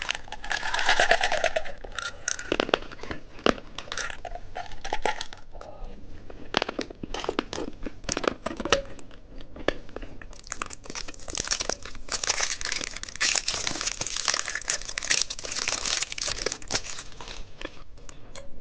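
Plastic candy packaging crinkling and being torn open, with many sharp clicks and taps of handling; the crinkling is densest from about ten to seventeen seconds in.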